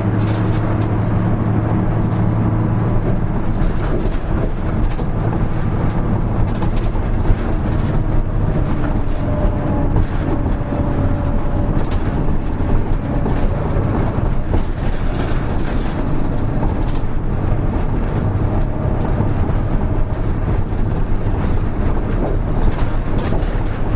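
Diesel engine of a Hino Rainbow HR (KL-HR1JNEE) city bus running as the bus drives, heard inside the cabin. A steady low engine hum runs throughout. A faint whine comes in for a few seconds near the middle, and scattered small rattles and clicks are heard.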